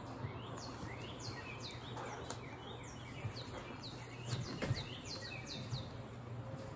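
Songbirds chirping outside: a steady run of short, quick notes, each falling in pitch, over a low steady hum. A few soft knocks a little past the middle.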